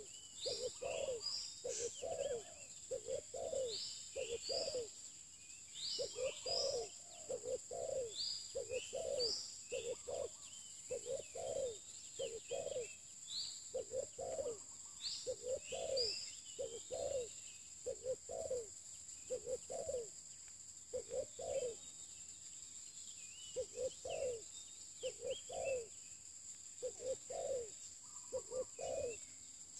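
Spotted dove (terkukur) cooing over and over in short groups of two or three notes. Small birds chirp higher up, and a steady high-pitched whine runs underneath.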